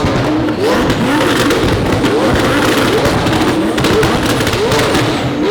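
Several supercar engines, an Aventador SV's V12, a McLaren 600LT's twin-turbo V8 and a twin-turbo Huracan's V10, revving against each other. The revs rise quickly, about twice a second, and overlap, with sharp exhaust pops and crackles between them.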